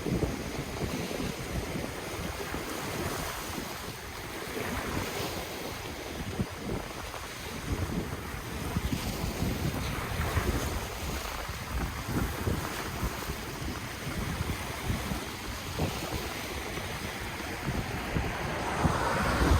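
Ocean waves washing in and out on the shore, rising and falling unevenly, with wind buffeting the microphone in low rumbling gusts.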